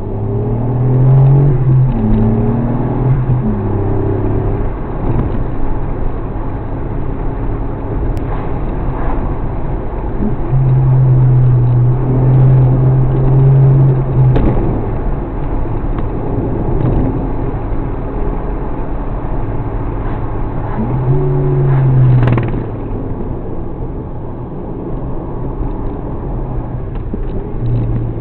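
Suzuki Alto Works HA36S's small turbocharged three-cylinder engine and road noise while driving. The low engine note steps up and down in pitch as speed and load change.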